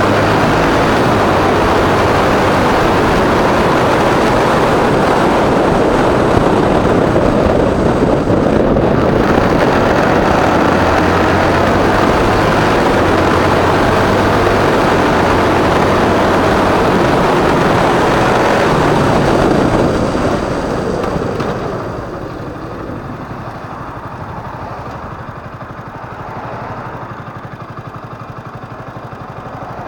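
Motorcycle riding, its engine running under a loud rush of wind and road noise. About two-thirds of the way through the sound drops and thins as the bike slows, leaving the quieter engine running.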